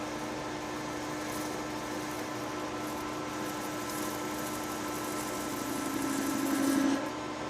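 Metal lathe running with a steady hum. From about five and a half seconds in, a cut into the metal part swells louder, then stops abruptly about a second before the end while the machine keeps running.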